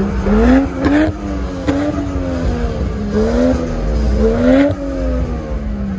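Lexus IS300's engine revved repeatedly as the car pulls away: the revs climb about four times, sinking back between each blip.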